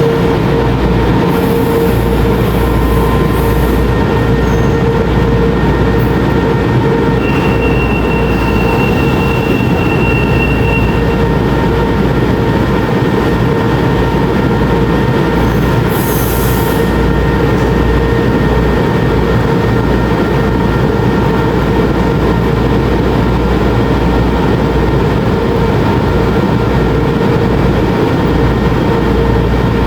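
São Paulo Metro train running at a steady pace: a continuous rumble with a constant whine, a higher squeal held for a few seconds in the first half, and two brief high hisses.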